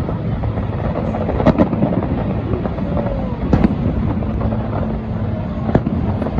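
Fireworks going off: three sharp bangs about two seconds apart over a steady low background din.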